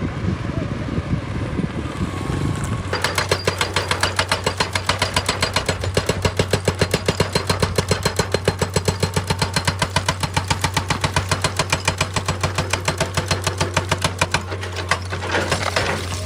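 Excavator-mounted hydraulic rock breaker hammering rock in a fast, even series of blows, about ten a second, over the excavator's running diesel engine. The hammering starts about three seconds in and stops shortly before the end.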